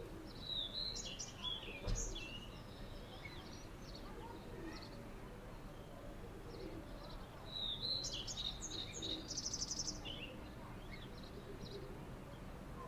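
Songbirds chirping and whistling in two bursts of song, the second ending in a fast high trill. A soft low knock sounds about two seconds in, over a steady faint background of surroundings.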